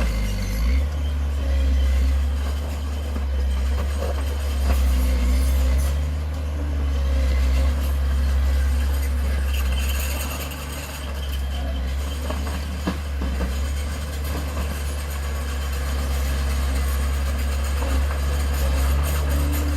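Diesel engine of heavy earthmoving equipment running steadily with a deep, constant rumble and a few faint knocks.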